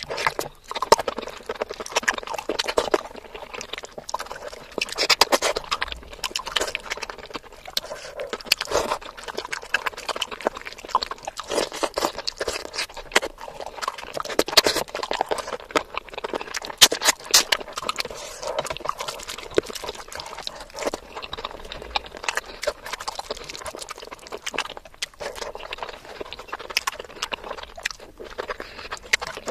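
Close-miked chewing and wet mouth sounds of someone eating chicken biryani and curry by hand: a continuous, irregular run of smacks, clicks and squelches.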